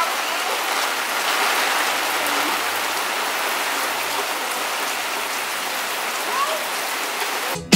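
Steady rain from a tropical storm: an even hiss with no letup.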